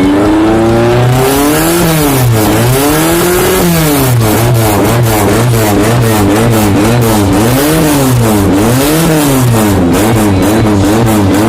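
An engine fitted with an aftermarket racing exhaust (knalpot racing) being revved by blipping the throttle. The pitch climbs at first, then swings up and down repeatedly, about one to two revs a second, with a loud, raspy exhaust note.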